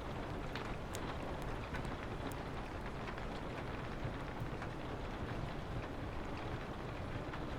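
Steady rain with a low wind rumble, and a few sharp crackles and pops from a wood fire in a fireplace.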